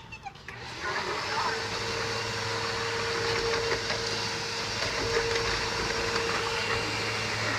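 Hoover Elite Rewind vacuum cleaner starting up about half a second in, its motor spinning up and then running steadily with an even rushing noise and a steady hum.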